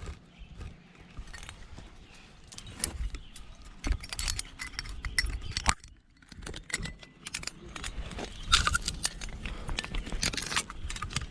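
Metal climbing gear on a climber's harness, carabiners and quickdraws, jangling and clinking with her moves, in a series of sharp clicks. The clicking briefly drops away about six seconds in.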